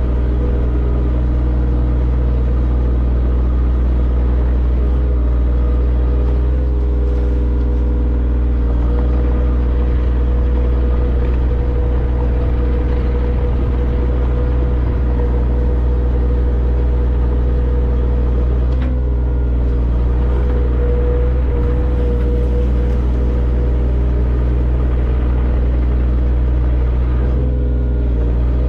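Large engine running steadily at a constant speed: a loud, unchanging low drone.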